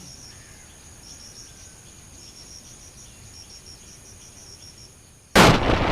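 Faint, high chirping of insects, such as crickets, repeating in short groups. About five seconds in it is cut off by a sudden loud rush of wind buffeting the microphone.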